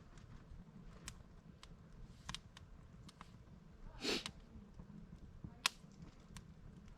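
Wood campfire crackling: scattered sharp pops and snaps over a low steady rumble of the flames, with a short louder burst about four seconds in and the sharpest pop shortly after.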